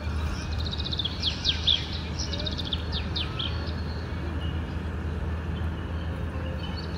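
A songbird singing runs of quick, descending chirps, mostly in the first half, over the steady low rumble of a car driving along a road.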